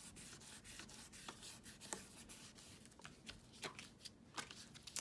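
Faint rubbing and rustling of paper being handled and smoothed by hand, with scattered light clicks and scrapes.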